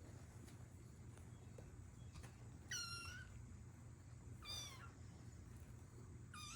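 Young kittens mewing: three short high-pitched mews, the second falling in pitch and the last near the end, over a faint steady low hum.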